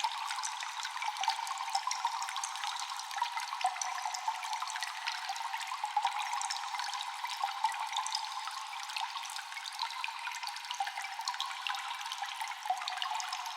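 Cave water ambience: many water drops dripping and echoing, irregular and overlapping, over a steady trickle of running water.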